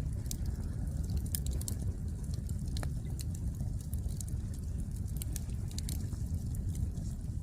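Wood fire burning, its logs crackling and popping in irregular sharp snaps over a steady low rumble.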